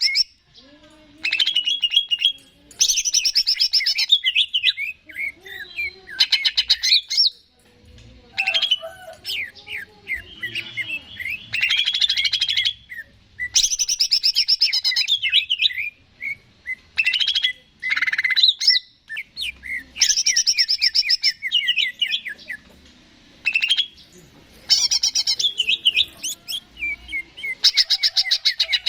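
Green leafbird (cucak ijo) singing: bursts of rapid, high chattering and trilling notes, each phrase lasting a second or two, broken by short pauses.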